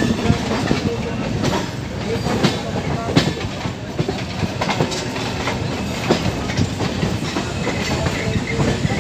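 Running noise of an electric multiple-unit (EMU) commuter train heard from its open doorway: a steady rumble, with the wheels clacking irregularly over rail joints and points.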